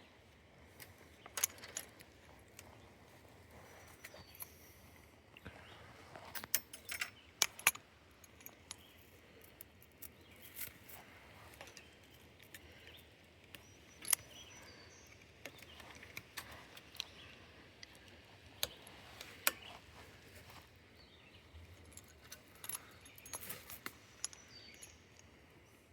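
Irregular light clicks and rattles of small hard objects being handled, with a few sharper clicks about 7 and 14 seconds in.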